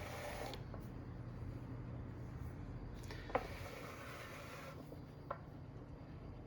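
Rowenta Turbo Silence Extreme table fan running on its silent setting: a low steady hum with a faint rubbing from the motor bearing, which the owner takes for a new-fan bearing sound that should wear in. Two light clicks come about three and five seconds in.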